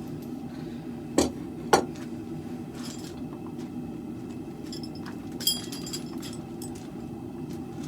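Two sharp metal knocks about half a second apart, then a brief jingle of clinking, ringing metal about five seconds in, over a steady low hum.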